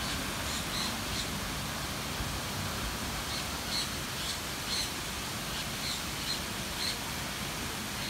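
Birds giving short, high chirping calls, a few near the start and a quicker run of them in the middle, over a steady outdoor hiss.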